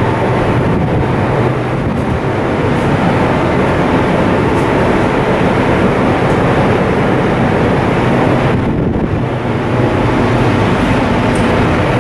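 Coastal cargo ship's diesel machinery running at steady load during a sea trial: a loud, even drone with steady humming tones.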